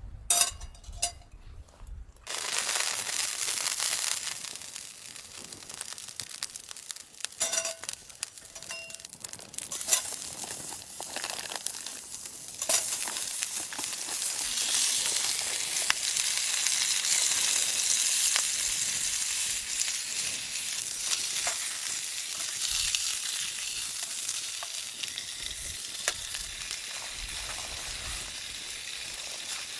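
Steak sizzling in a hot pan, a steady crackling hiss that starts a couple of seconds in after a few light clinks and grows louder about halfway through.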